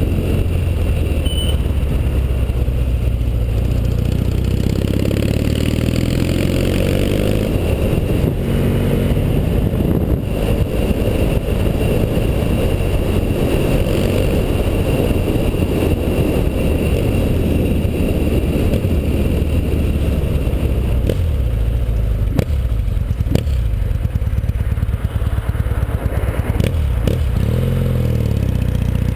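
1981 Yamaha XS650's parallel-twin engine heard from the rider's helmet while riding, its pitch rising and falling with throttle and gear changes over a heavy low rumble. It eases off with a few sharp clicks past the middle, then revs up again near the end as the bike pulls away.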